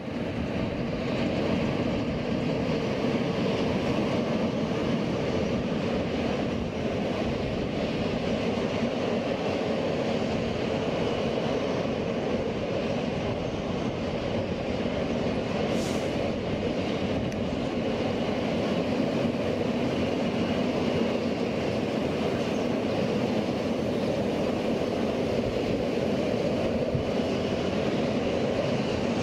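Train passing at the lineside: a steady rolling of wheels on the rails that starts abruptly and holds at an even level.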